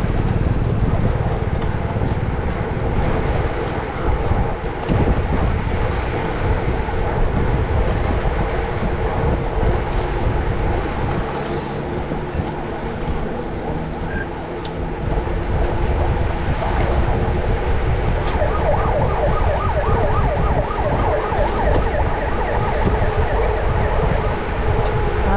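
Steady rush of wind and road noise on a riding cyclist's camera microphone, with a vehicle siren sounding over it. The siren wavers quickly up and down in the last several seconds.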